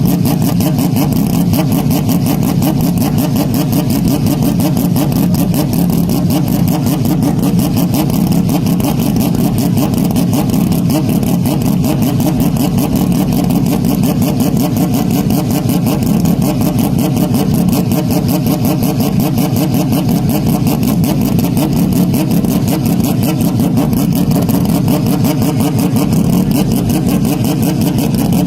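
Engine noise, heavily distorted and clipped, held at a steady pitch with no rise or fall in revs.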